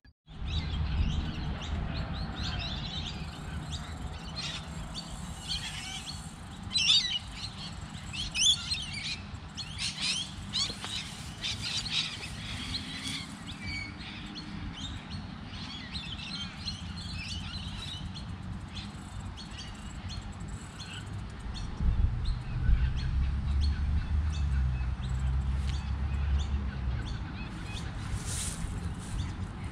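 Wild birds chirping and calling, most busily in the first half, over a steady low rumble that swells for a few seconds about three-quarters of the way through.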